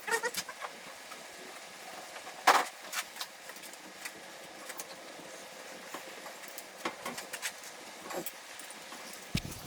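Scattered clicks, knocks and clanks of hand tools and metal parts during work on an outboard motor's water pump impeller, with one louder clank about two and a half seconds in, over a steady hiss. The clip is played back sped up.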